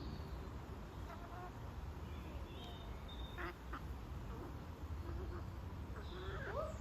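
Poultry calling at feeding time: scattered short calls and squawks, with a few rising calls near the end.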